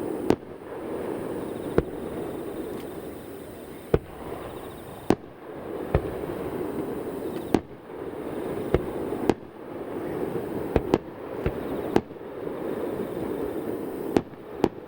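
Fireworks display: aerial shells bursting one after another at irregular intervals, about a dozen sharp bangs, each followed by a rolling rumble of echo off the surrounding mountains.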